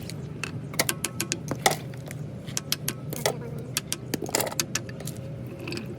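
Irregular metallic clinks and taps, many short sharp ones close together, over a steady low hum.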